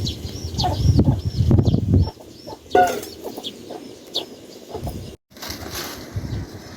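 Chickens clucking among repeated short high chirps, with low thumping and rustling for the first two seconds and one louder pitched call about three seconds in. The audio drops out briefly about five seconds in.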